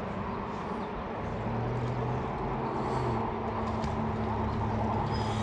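A motor vehicle's engine humming steadily over a continuous rushing noise, the hum growing a little stronger about a second and a half in.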